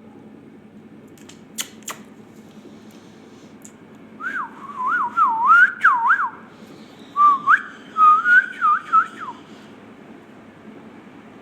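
A whistled tune in two phrases of quick rising and falling notes, each about two seconds long, preceded by two sharp clicks.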